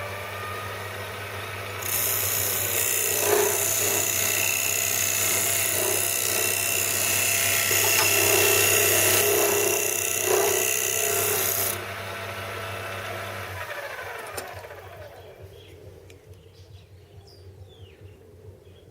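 Metal lathe running with a steady motor hum; from about two seconds in the cutting tool bites into the spinning workpiece with a loud, hissing cut for about ten seconds. Then the cut stops, the motor is switched off and winds down with a falling whine, and it goes quiet near the end.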